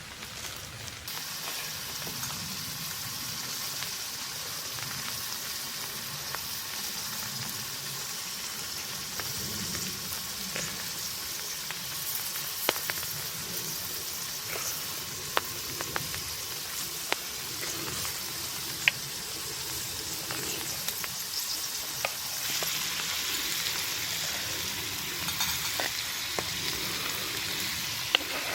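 Food frying in a pan over a campfire, a steady sizzle that starts about a second in, with scattered clicks of a utensil against the pan as it is stirred.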